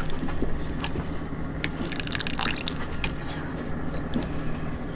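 Liquid being poured and dripping, with scattered light clicks and clinks.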